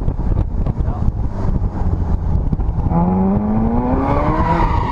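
Car engine running hard over heavy rumbling road and wind noise, its pitch rising steadily from about three seconds in as it accelerates. A high tire squeal starts to build near the end.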